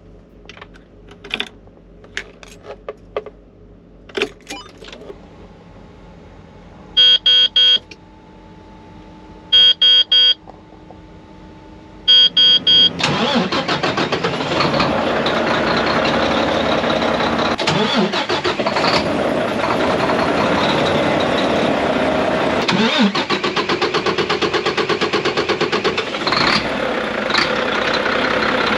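A few faint clicks, then three short bursts of rapid dashboard warning beeps, then the starter cranks a Mack MP8 13-litre inline-six diesel for a long stretch of about fifteen seconds with a steady rhythmic churn. This is the long-crank hard start the owner is showing, a fault he connects with his injectors.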